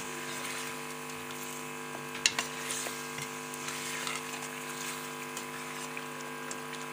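Chicken pieces sizzling in oil and spice masala in a metal pot as they are stirred with a metal spatula, with a sharp clank of the spatula against the pot about two seconds in and lighter scrapes and taps after. A steady hum sits underneath.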